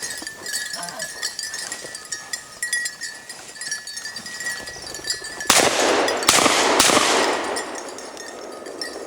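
Three shotgun shots in quick succession, the first about five and a half seconds in and the others less than a second apart, each followed by a ringing echo. They are fired at a flushed game bird.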